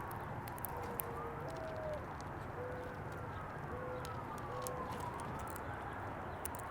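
A distant siren wailing slowly up and down, with a dove cooing a short series of low, soft notes, the second one higher, a mourning dove's call. A few faint sharp clicks come in between.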